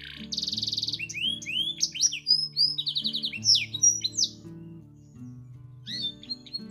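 Domestic canary singing a long, varied song of quick chirps, sweeping whistles and rapid trills, pausing for a moment about two-thirds of the way through, with soft guitar music underneath.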